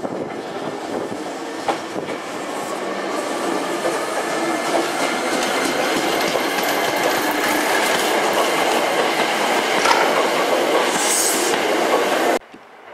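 Hankyu 5300-series electric train's cars running past close by, the wheels clattering over the rail joints. The running noise grows louder as the cars go by, with a brief hiss about eleven seconds in, then cuts off suddenly near the end.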